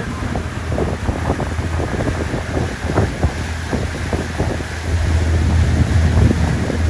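Wind buffeting the microphone aboard a cruise boat under way, in irregular gusts over a steady low rumble.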